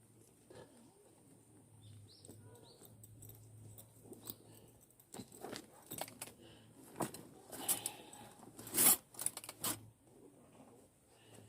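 Scattered clicks, clinks and rustles of objects being handled, busiest in the second half, over a faint steady low hum.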